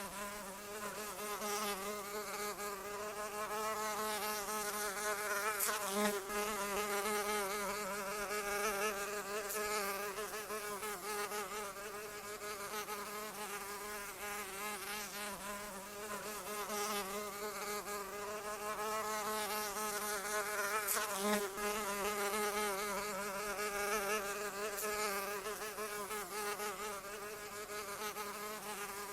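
A fly buzzing continuously, its wingbeat tone wavering up and down in pitch and swelling and fading a little in loudness.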